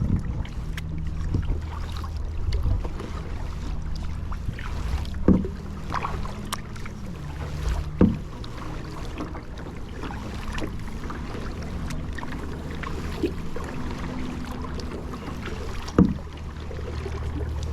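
Water sounds from a kayak being paddled, with a steady low rumble. Three short, sharp hits stand out, about five, eight and sixteen seconds in.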